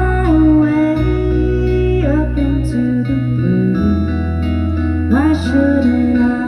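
A folk song played live on guitar and bass. The bass holds long low notes and changes note about four seconds in, while sliding notes glide up and settle a few times above it.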